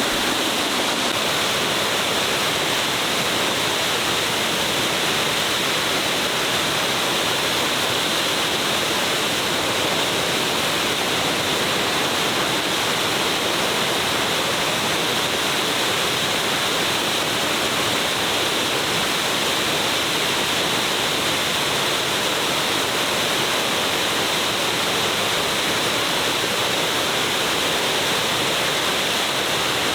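A large waterfall pouring, a steady, unbroken rush of falling water.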